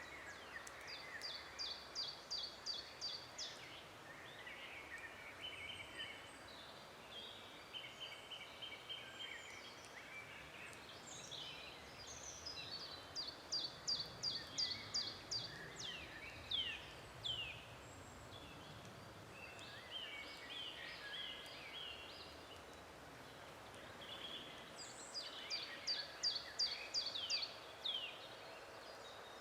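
Several songbirds singing in a forest. One bird repeats a quick phrase of about eight even, high notes three times, roughly every twelve seconds, while other birds chirp and trill in between over a faint steady hiss.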